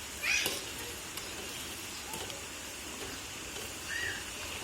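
Steady rushing hiss, with two short high-pitched animal cries: a rising one just after the start and a shorter arched one about four seconds in.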